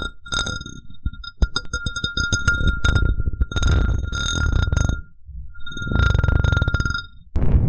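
A glass cup being rubbed, squeaking and ringing with a steady high tone over a low grinding rub, in three passes, the longest several seconds. Just before the end it cuts to a loud rustling hiss.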